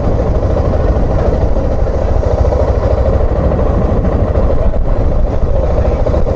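Suzuki XF650 Freewind motorcycle's single-cylinder engine running steadily while the bike is ridden, with a constant low rumble and no change in revs.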